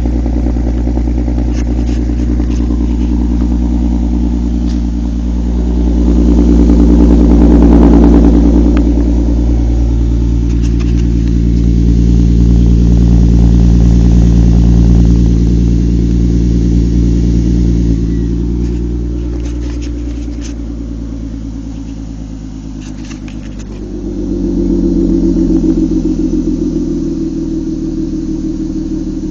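2004 Volkswagen Golf R32's 3.2-litre VR6 engine and exhaust idling just after a cold start, running steadily and swelling louder and softer a few times.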